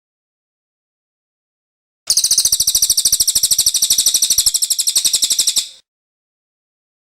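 Cililin songbird singing a fast, even run of high repeated chirps for nearly four seconds, starting about two seconds in, as used for master recordings to tutor contest birds.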